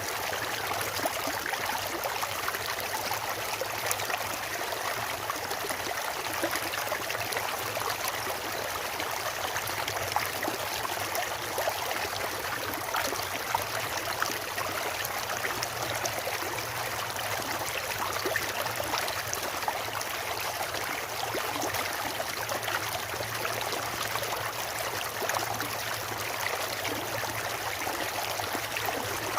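Stream water rushing and splashing over rocks, a steady hiss with small splashes throughout.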